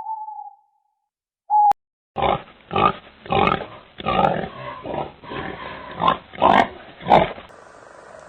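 Animal calls: a short whistle-like note at the start and another about a second and a half in, then a run of about nine rough grunts over five seconds, the last few loudest.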